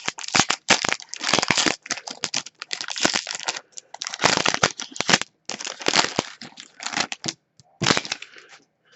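Foil wrapper of a hockey card pack crinkling and tearing as it is opened, in a run of quick crackling bursts.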